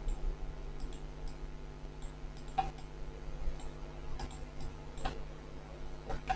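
Faint, irregular clicks of a computer mouse, several a second apart, as vertices are selected and dragged, over a low steady hum.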